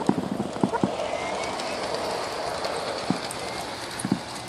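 Garden-scale model K27 steam locomotive's sound system giving a steady hiss, with a few scattered clicks.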